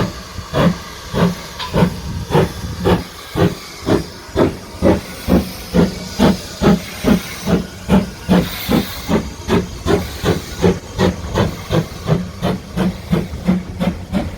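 Steam locomotive pulling out of the station, its exhaust beating in a steady, even rhythm of about three chuffs a second.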